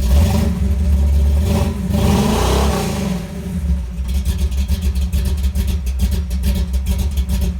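Cammed Chevy small-block V8 in a 1983 C10 pickup, revving up in the first three seconds, then settling into a choppy, lopey idle from its big camshaft.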